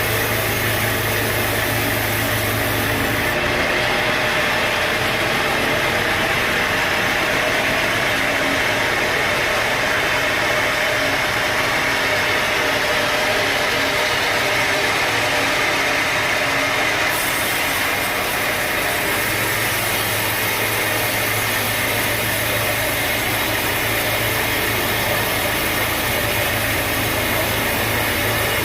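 Sawmill machinery running steadily. A low hum drops out a few seconds in and returns past the middle, while the overall level stays constant.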